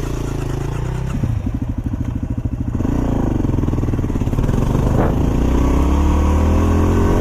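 Yamaha WR250R single-cylinder dual-sport motorcycle engine running, with a fast even pulse for a couple of seconds, then rising in pitch as it revs and pulls away.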